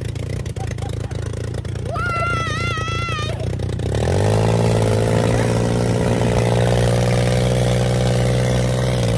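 Dirt bike engine running on a ride, picking up revs and getting louder about four seconds in, then holding a steady higher note. Earlier, a person's high wavering call is heard briefly over it.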